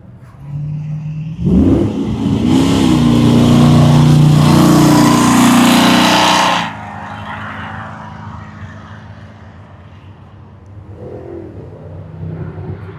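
A car engine revs up sharply with rising pitch, runs loud and high for about four seconds, then drops suddenly back to a lower, steady running sound.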